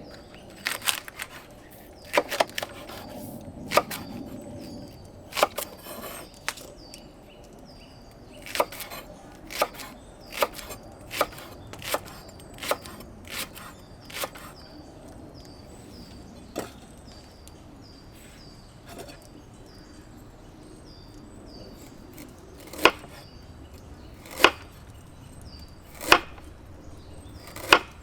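A blade chopping into wood: a run of sharp single knocks, irregular and close together at first, then four strong blows about a second and a half apart near the end.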